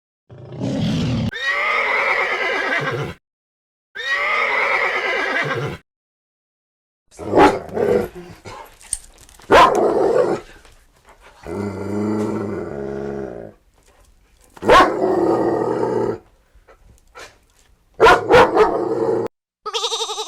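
Horse whinnying and neighing in a series of separate calls with short silent gaps: two long quavering whinnies, then several shorter, sharper calls.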